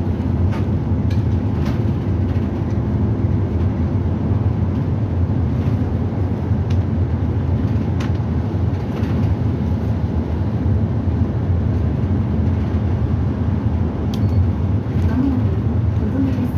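Bus running, heard from inside the cabin: a steady low engine and road drone with a few light clicks and rattles.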